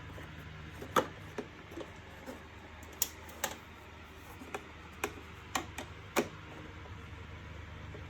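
Irregular sharp clicks and knocks of plastic vacuum-cleaner housing parts being handled and fitted together during assembly, about ten in all, over a steady low hum.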